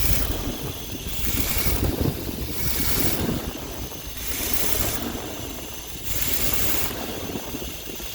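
Vehicle engine rumbling low under heavy wind noise on the microphone, the hiss surging and fading about once a second.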